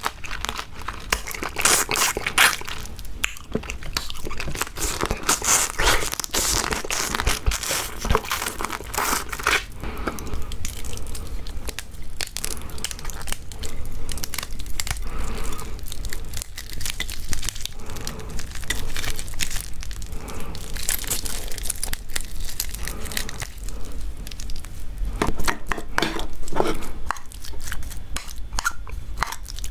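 Eating raw marinated crab: crunching and cracking through the soft shells and chewing, a dense run of crackling clicks that is busiest in the first third and again late on.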